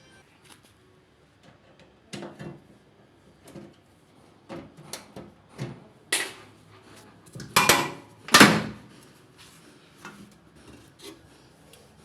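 Irregular knocks, clatters and scrapes of hard objects being handled, with two louder, longer scraping clatters about seven and eight and a half seconds in.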